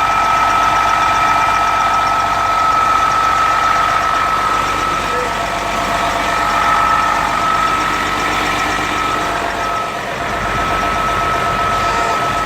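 Detroit Diesel Series 60 12.7-litre inline-six diesel in an MCI D4500 coach idling steadily, with a steady high-pitched tone running over the engine sound.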